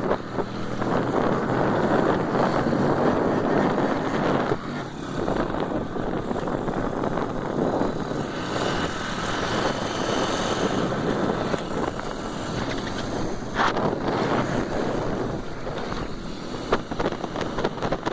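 Motorcycle engines running under heavy wind noise on the microphone, with a higher engine whine about eight to eleven seconds in.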